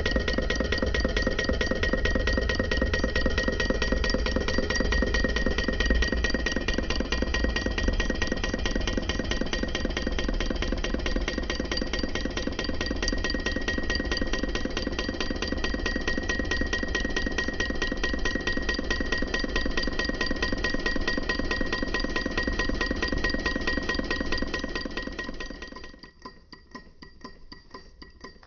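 PM Research solar Stirling hot-air model engine running, a rapid, even clatter of its moving parts with a faint steady ringing tone over it. Near the end it suddenly gets much quieter, leaving light ticking.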